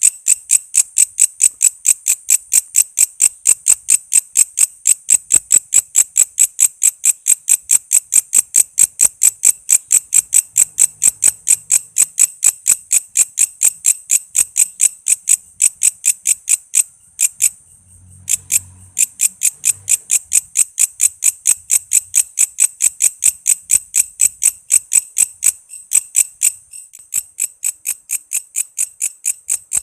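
Walang kece, a katydid, calling in a steady train of short, sharp chirps, about three to four a second. The chirps stop for about a second in the middle, then resume.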